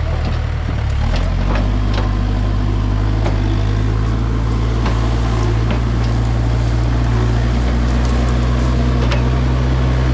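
Backhoe engine running steadily, its low note shifting and settling about a second in, with scattered sharp cracks and clicks from the brush work over it.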